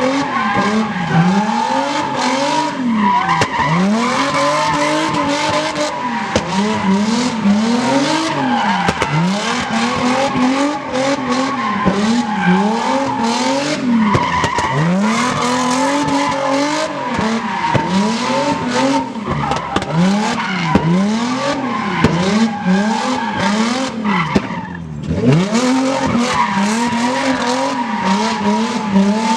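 Car engine revving up and down over and over, about once a second, with tyres squealing continuously as it does burnouts. The revving and squeal dip briefly near the end, then pick up again.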